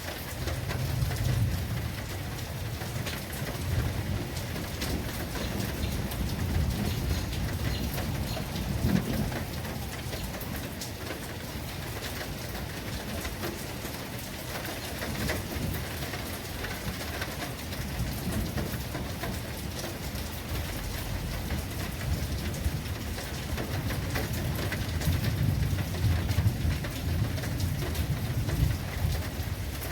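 Steady rainstorm: rain falling with many distinct drop ticks. Low thunder rumbles swell near the start and again near the end.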